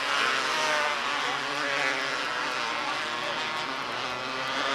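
Engines of several small race cars running at speed together in a pack, their pitches rising and falling as they lap the track.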